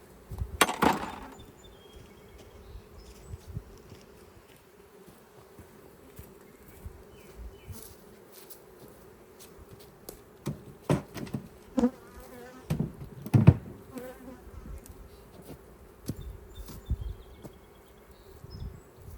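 Steady hum of a honeybee colony buzzing around an open hive, with a sharp knock about a second in and a cluster of knocks and thumps about two-thirds of the way through.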